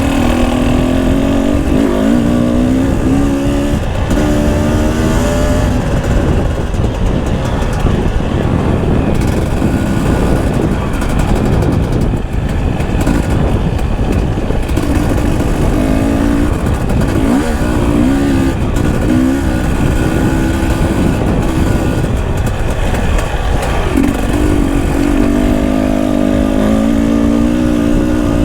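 Enduro dirt bike engine running as it is ridden along a trail, its pitch rising and falling with the throttle, over a heavy low rumble of wind on the microphone.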